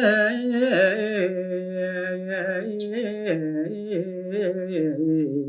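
Solo male voice singing a line of Balinese tembang in pupuh Sinom, unaccompanied. Long held notes with small ornamental turns step gradually down in pitch.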